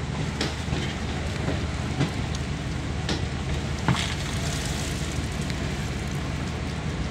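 Passenger train running, heard from on board: a steady low rumble with a rush of air, and a few sharp knocks.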